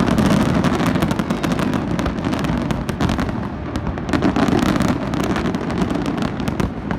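Professional fireworks display: shells bursting in a rapid, unbroken run of bangs and crackling pops.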